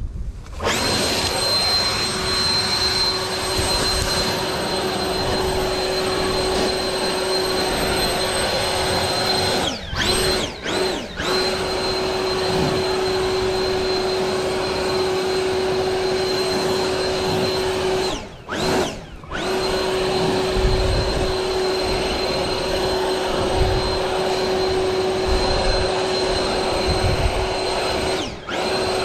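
Leaf blower running at full speed with a steady whine. The speed dips and comes back a few times around the middle and once near the end, as the trigger is briefly let off.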